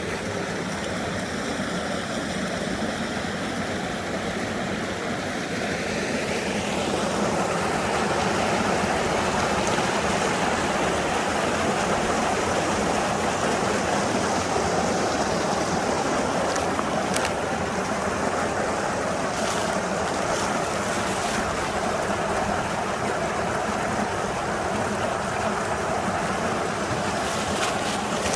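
Mountain stream rushing steadily over rocks, getting louder and fuller about seven seconds in.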